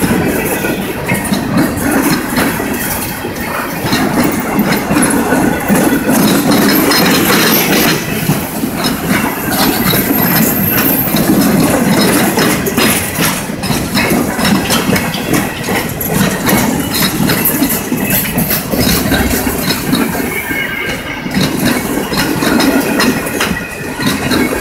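Freight train of covered steel-coil cars rolling past at close range, its wheels clicking and rumbling over the rails, with a steady engine drone underneath.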